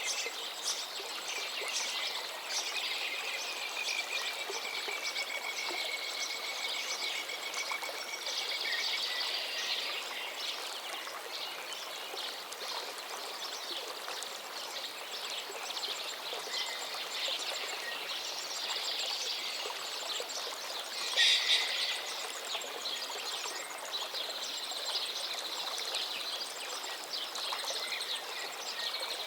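A stream running with a steady rush, with birds chirping and calling over it. About two seconds in, one long high note slides slightly downward for some six seconds. About 21 seconds in comes a short, louder burst of high calling.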